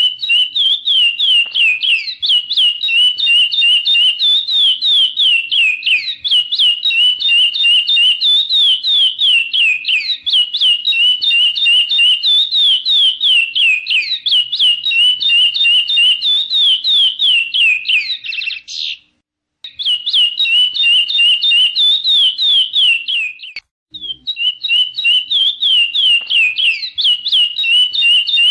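Chestnut-bellied seed-finch (curió) singing: a rapid, continuous run of clear downslurred whistled notes, several a second. The song breaks off abruptly twice for a moment in the last third.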